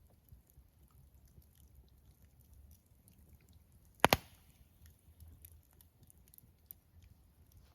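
Wood fire crackling softly with faint scattered ticks, and one loud, sharp double pop about four seconds in.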